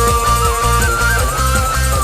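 Kecimol street band playing an instrumental break: a single lead melody line bending between notes over a heavy, even drum beat and bass.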